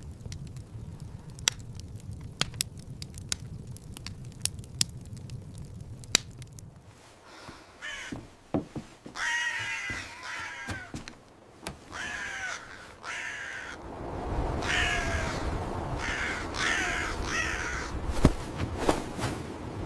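Crow cawing: groups of harsh calls starting about eight seconds in and repeating for about ten seconds. Before the calls, scattered sharp clicks and crackles over a low steady rumble, and the rumble grows louder during the later calls.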